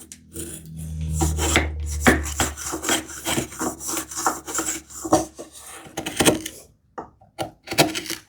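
Wood rubbing and scraping in quick, irregular strokes as tambour slats are worked into a tight hand-cut groove in a wooden strip, with a low drone in the first couple of seconds. The strokes die away about two-thirds through, and a few light knocks follow.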